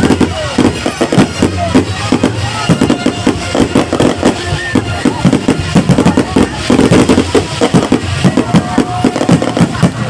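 Fireworks going off in a dense, rapid string of bangs and crackles, several a second.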